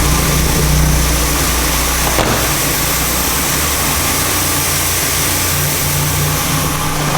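Shelby Dodge Rampage's turbo 2.2 L four-cylinder engine idling, heard from inside the cab, under the steady hiss of an automatic car wash's water spray on the body. A single short knock about two seconds in.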